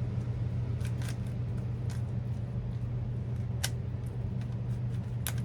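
A few sharp plastic clicks from a Rubik's cube being handled and turned, over a steady low hum.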